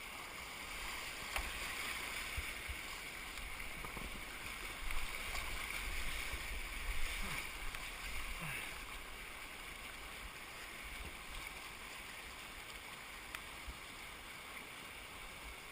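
Shallow creek water running over rocks, a steady rushing hiss with a low rumble underneath and a few faint knocks.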